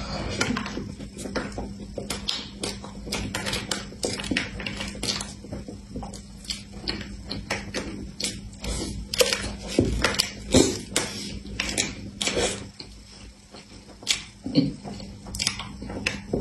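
Close-miked chewing and mouth sounds of someone eating a soft cream-filled pastry puff: a quick, irregular run of wet smacks and clicks.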